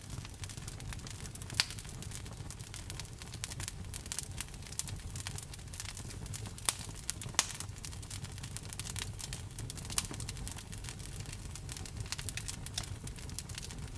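Wood fire crackling, with irregular snaps and a few louder pops over a steady low rumble.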